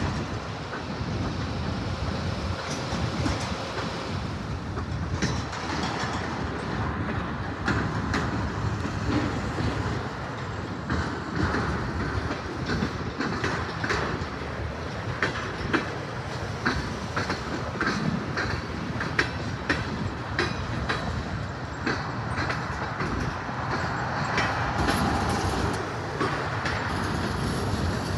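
Freight cars rolling past on the track: a continuous rumble with the wheels clicking and clanking irregularly over the rail joints.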